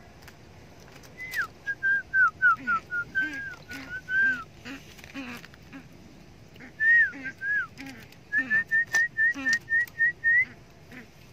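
Bird giving a series of short, clear whistled notes, each sliding down in pitch. After a short pause a quicker run of about nine notes steps steadily upward. Fainter low hooting notes repeat about twice a second underneath.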